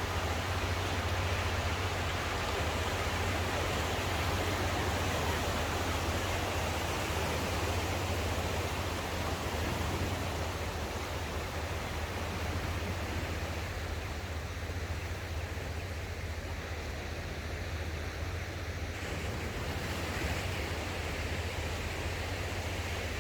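Sea surf washing onto the shore: a continuous rush of waves that swells and eases, over a steady low rumble.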